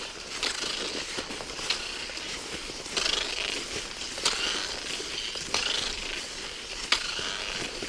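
Cross-country skis swishing along a groomed track of cold, dry snow, with a sharp click from a ski-pole plant about every second and a quarter in a steady skiing rhythm.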